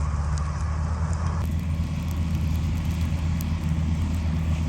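Kubota 105 combine harvester running steadily, a deep engine hum under a hissing mechanical noise; about a second and a half in, the higher noise changes abruptly.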